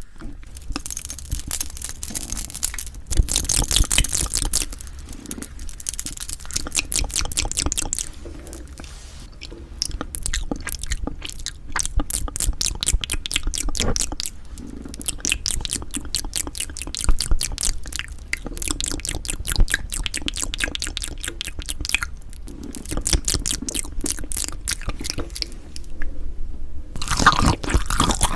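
Close-miked chewing and wet mouth sounds of a person eating, a dense run of small crackles and smacks.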